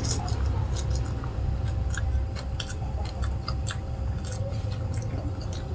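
Close-up chewing of a mouthful of rice and crispy fried catfish, with many short irregular mouth clicks and crunches, over a steady low hum.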